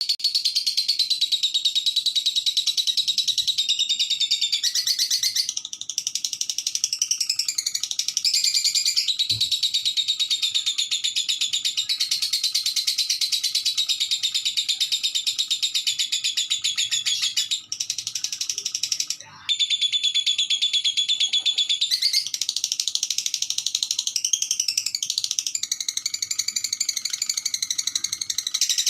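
Lovebird chattering nonstop in rapid, high-pitched trills and twitters, with a couple of brief breaks past the middle.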